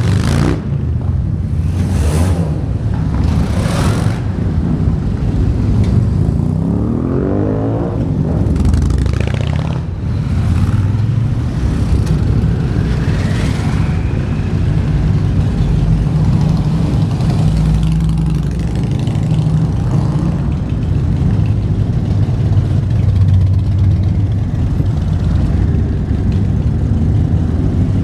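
Motorcycle engine running on the move, its pitch sweeping up and down about a quarter of the way in and rising again near the middle.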